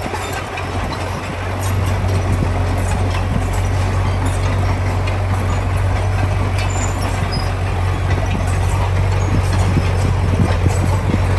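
Heavy diesel construction machinery running steadily with a deep hum and a rough clatter over it, growing louder about a second and a half in.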